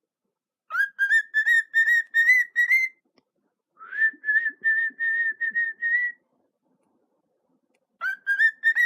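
Cockatiel whistling: runs of rapid short notes on an almost level, slightly rising pitch, each run about two seconds long, with a pause between. There are two full runs, and a third starts near the end.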